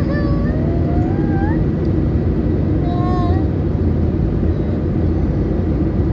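Steady, loud engine and air noise inside the cabin of an Airbus A320neo. Brief rising high tones are heard over it right at the start and again about three seconds in.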